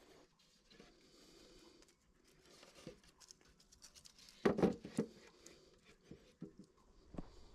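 Irregular light clicks, scrapes and rustles of objects being handled, with a louder cluster of knocks about four and a half seconds in.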